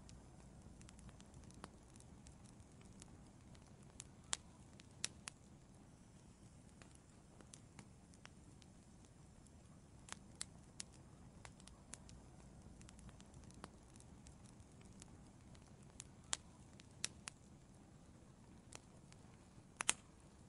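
Wood fire crackling in an outdoor fireplace: scattered, irregular sharp pops over a faint low rumble, with a quick cluster of louder pops near the end.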